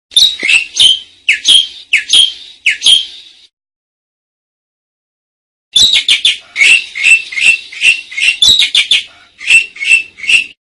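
Asian pied starling (jalak suren) singing: a quick run of short, sharp notes for about three seconds, then after a pause of about two seconds a longer, denser run of the same notes.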